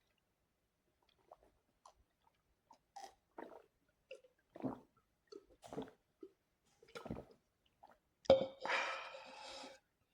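Close-up eating sounds: a string of short chewing and mouth noises. About eight seconds in comes a much louder, sharper sound that carries on for over a second.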